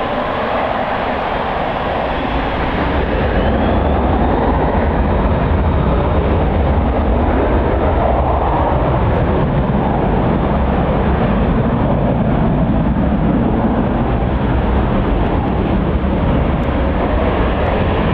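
Strong wind buffeting the microphone: a loud, steady rumbling rush that gets a little louder a few seconds in and then holds.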